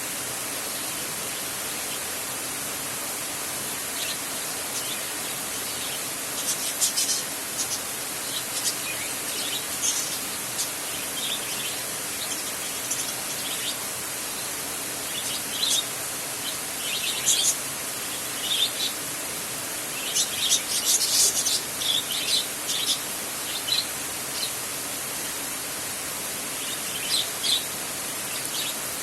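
Steady heavy rain on a metal roof, an even hiss throughout, with short bird chirps breaking in over it again and again, busiest in the second half.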